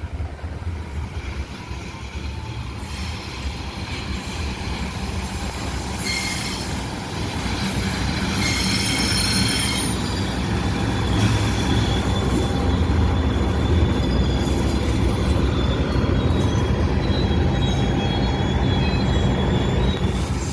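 A train running past on its rails, a steady rumble of wheels and wagons that grows louder and then holds. High-pitched wheel squeal comes in about six seconds in and keeps recurring.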